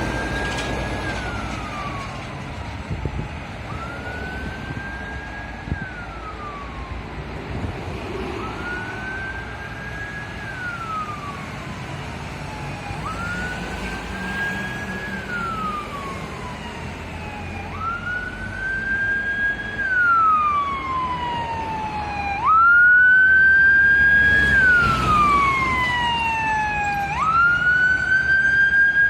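Siren of the Duty Chief's unmarked Ford Fusion, a responding fire command car, wailing as the car approaches. Each cycle rises quickly, holds briefly and falls slowly, about every four to five seconds. It grows louder throughout and jumps sharply in loudness about three-quarters of the way through, over low traffic rumble.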